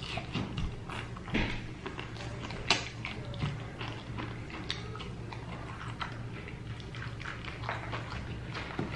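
A person chewing and biting fried chicken close to the microphone: irregular crunches and clicks, with a few sharper ones standing out.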